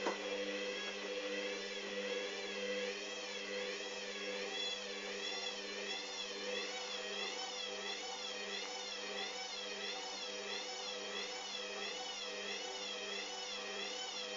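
Hoover Dynamic washing machine on its spin cycle with an unbalanced load: a steady motor hum under a high whine whose pitch wavers up and down about once or twice a second.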